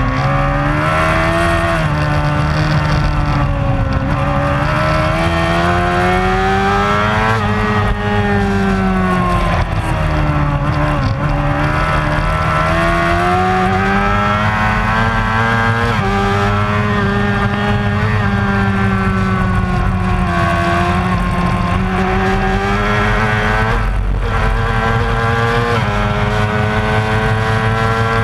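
Racing motorcycle engine held at high revs, its pitch rising and falling slowly as the throttle is worked, with a few sudden jumps in pitch at gear changes.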